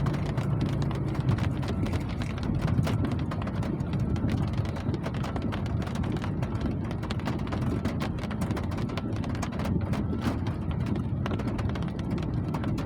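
Steady rain falling, a dense run of small drop ticks over a low, even rush.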